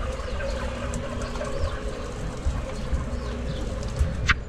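Outdoor ambience: scattered faint bird chirps over a steady low rumble, with a few short clicks.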